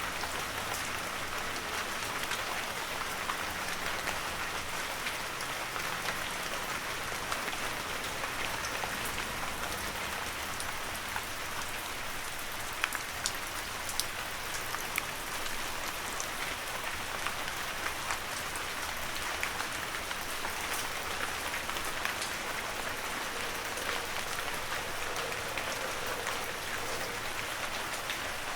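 Heavy rain falling steadily, a dense even hiss with many individual drops pattering and ticking close by, a few louder drop hits about halfway through.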